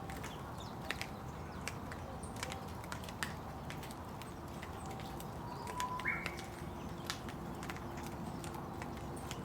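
Rain falling, with drops tapping irregularly on nearby surfaces over a steady low hiss. A short bird call about six seconds in.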